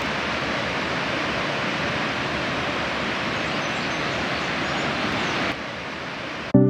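Steady rush of falling water from a waterfall, which drops away sharply about five and a half seconds in. Music starts right at the end.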